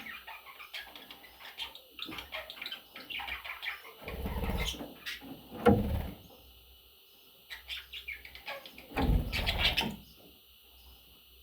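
Pet budgerigars chirping and chattering in quick, high notes, with two louder bursts of rustling noise about four and nine seconds in.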